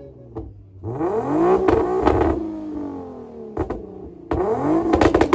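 A car engine revving twice: the pitch climbs fast about a second in and then falls away slowly, and it climbs again a little after four seconds. A couple of sharp cracks come between the two revs.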